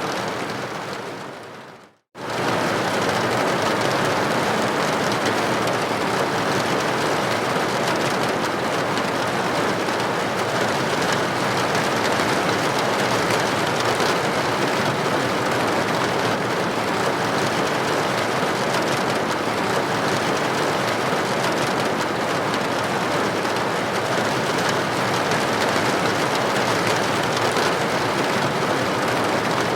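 Steady rain on a window, an even hiss of droplets. About two seconds in, it fades out to a moment of silence and then comes straight back at full level, as at the seam of a looped recording.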